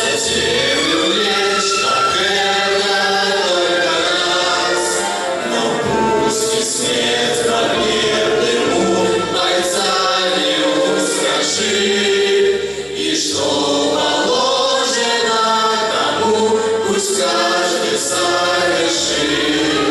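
Choir singing a wartime song in waltz time over an instrumental accompaniment with a repeating bass line.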